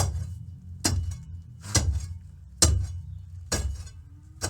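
Heavy metal tool struck repeatedly into hard concrete, about one blow a second, five or six sharp strikes in a steady rhythm.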